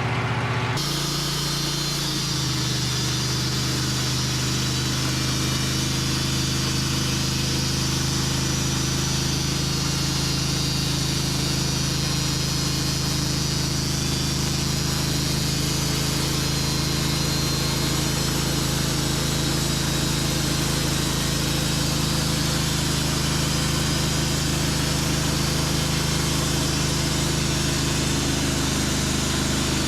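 Engine-driven sawmill cutting through a black walnut log: the engine runs steadily under load and the blade hisses through the wood, the cutting noise coming in about a second in.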